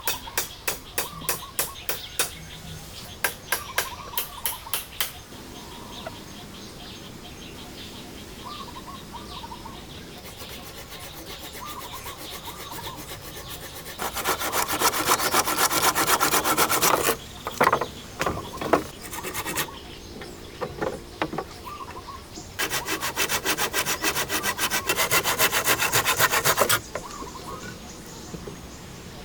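Wood being cut with a hand saw: a run of steady strokes, then two longer bursts of fast sawing separated by quieter pauses.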